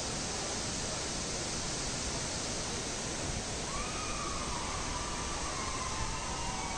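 Large waterfall's water rushing in a steady, even noise, close enough that its spray reaches the path. A faint drawn-out call sounds over it about halfway through.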